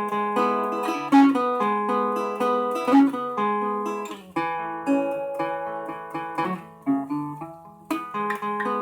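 Acoustic guitar being strummed and picked, each chord ringing and fading before the next stroke.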